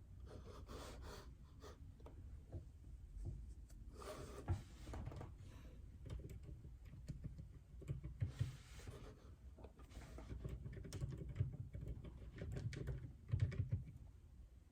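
Typing on a JJK84 mechanical keyboard with Outemu Silent Peach linear switches: quiet keystrokes in irregular bursts with short pauses between them.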